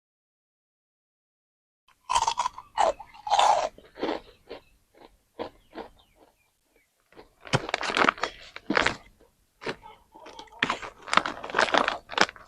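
Close-miked chewing and crunching of a small Thai sweet, starting about two seconds in as irregular bites and chews.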